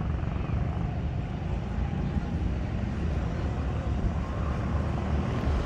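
Steady low rumbling outdoor noise, heaviest in the deep bass and fluttering there, with no clear pitched tone.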